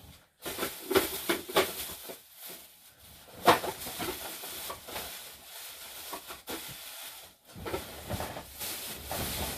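Plastic shopping bags rustling and crinkling as someone rummages through them, in short irregular crackles with a sharper crackle about three and a half seconds in.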